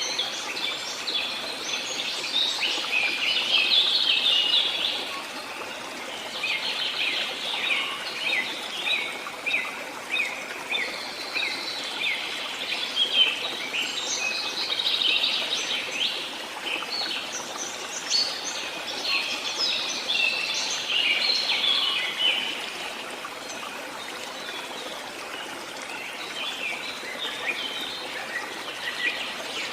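Many small birds chirping and singing in quick overlapping bursts over the steady rush of running water. The chorus thins out after about twenty seconds.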